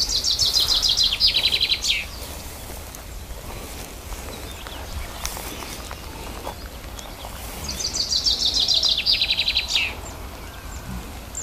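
A songbird singing twice: each song is a fast trill of rapid repeated notes, about two seconds long, falling in pitch and ending in a quick downward flourish. The first comes at the start, the second about eight seconds in.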